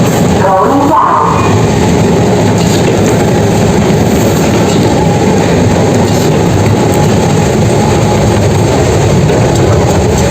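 Loud, steady mechanical rumble with no breaks or changes.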